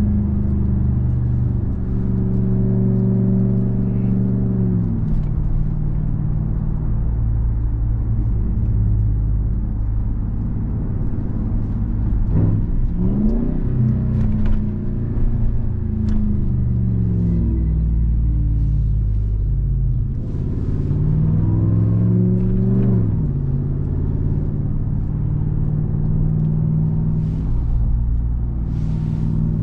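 2021 Ram 1500 TRX's supercharged V8 running while driving. It climbs in pitch under acceleration twice, about 12 and 20 seconds in, and falls back each time, with a steady drone in between.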